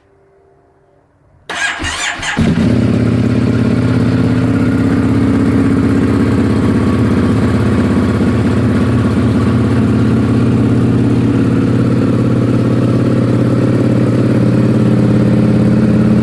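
EBR 1190RX's V-twin engine cold-started on its electric starter: a short crank about a second and a half in, catching within a second, then settling into a steady idle.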